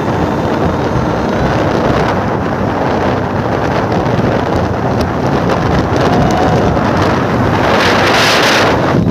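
Heavy wind buffeting the microphone of a motorcycle riding at speed, with the bike's running underneath. A louder rush of air comes about eight seconds in.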